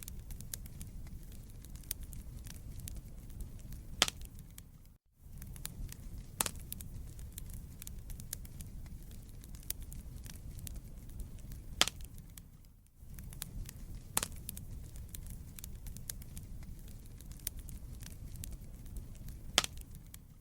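Wood fire burning in a fireplace: a steady low rumble of flames with scattered crackles and a few sharp pops from the burning logs. The sound dips out briefly twice.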